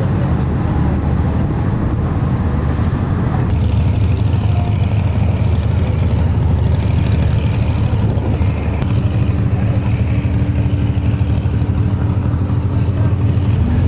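A large engine running steadily with a loud, low rumble; a steady hum joins about nine seconds in.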